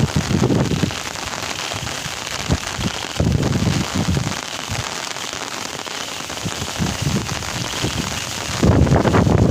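Steady rain falling, with gusts of wind rumbling on the microphone, strongest near the start and again near the end.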